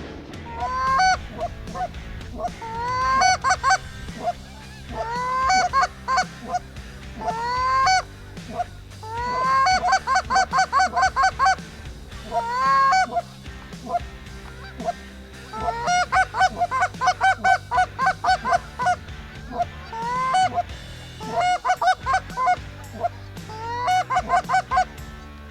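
Canada geese honking: rising honks in short groups, with two fast runs of quick clucking honks about ten and sixteen seconds in.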